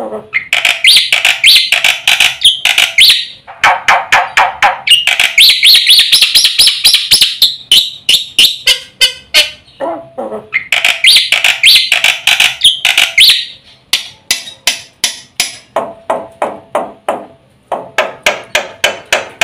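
Black-winged myna (jalak putih) singing a fast, varied song: runs of sharp clicking notes at about three or four a second, alternating with dense chattering trills.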